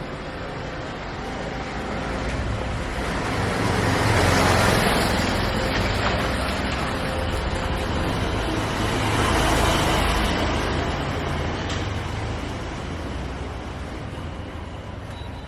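Road traffic: a steady noise with a low rumble that swells twice, about four and ten seconds in, as vehicles pass.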